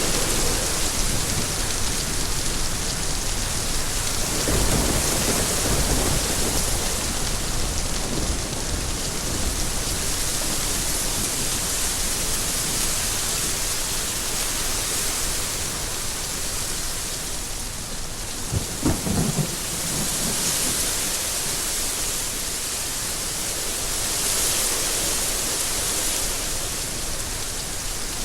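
Steady rain falling, an even hiss. There is a low rumble about five seconds in and a brief, louder low rumble about nineteen seconds in.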